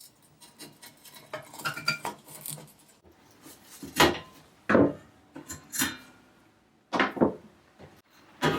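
Metal parts being handled and knocked together: soft rattling and clinking at first, then about half a dozen sharp metallic knocks with a short ring, from about four seconds in.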